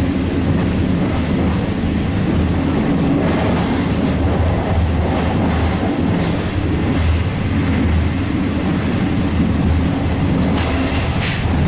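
Regional express train running at speed, heard from inside the passenger coach: a steady low rumble of wheels on rail, with a few sharp clicks near the end.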